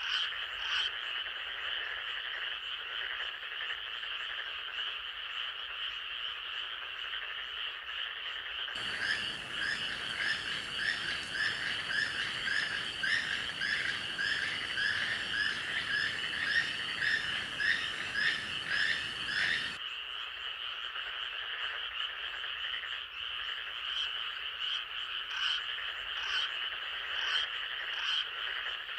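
Night chorus of frogs calling steadily and densely. From about nine seconds in to about twenty, a second layer cuts in and out abruptly, carrying a rhythmic repeated call about twice a second over a fuller background hiss.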